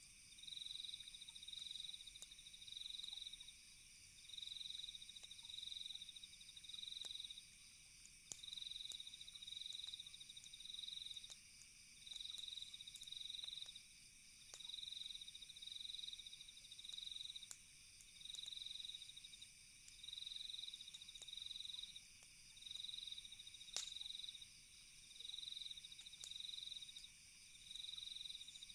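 Quiet night-insect chorus: a cricket's high trill repeating in short bursts about once a second over a steady, higher insect hum. A few faint crackling pops from a campfire come through, two of them sharper, about a third of the way in and near the end.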